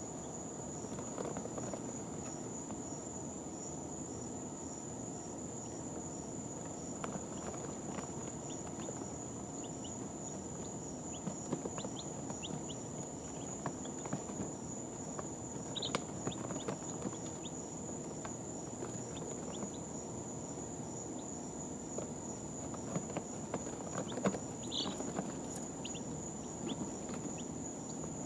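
Two-day-old baby chicks shuffling in their bedding, with scattered small clicks and scratches, and a few short, high peeps about two-thirds of the way through and near the end. A steady high-pitched whine runs under it all.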